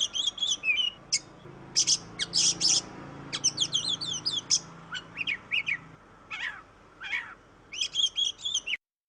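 Oriental magpie-robin (kacer) singing in full voice: a rapid, varied run of sharp chirps and whistled sweeping notes, which stops abruptly near the end.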